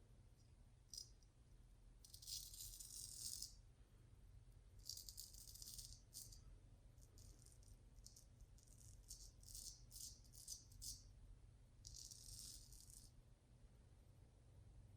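Faint scraping of a Max Sprecher custom 8/8 straight razor cutting through lather and stubble on a cross-grain pass. There are a few strokes of about a second each, with a run of short, quick strokes in the middle.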